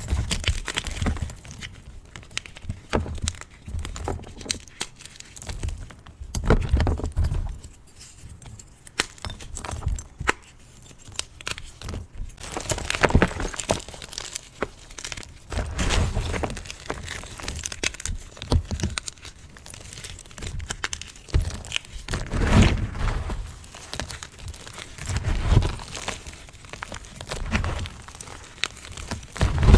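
Hard reformed gym chalk lightly coated in cornstarch being crunched and crumbled close to the microphone: loud crunches every few seconds, with crackling and gritty crumbling between them.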